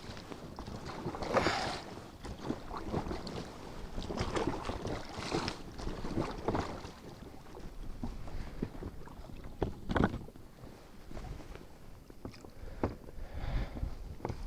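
A small boat on choppy water in strong gusty wind: wind buffeting the microphone and water slapping around the hull, with several sharp knocks, the loudest about ten seconds in.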